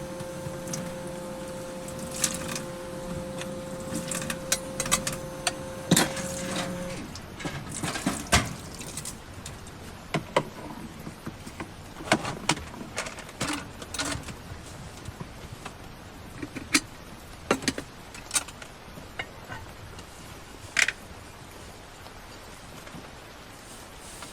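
A steady hum that cuts off about seven seconds in, then scattered clicks, knocks and clinks of small objects being handled.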